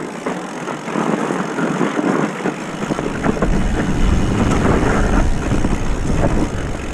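A mountain bike rolling down a rough trail: tyre rumble with a steady clatter of small rattles. A deep wind rumble on the microphone swells about three seconds in.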